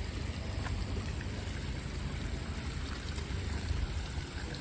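Running spring water, a steady rush with a low rumble underneath.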